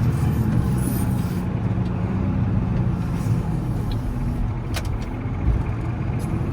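Volvo L70C wheel loader's diesel engine running steadily, with a single sharp click about three-quarters of the way through.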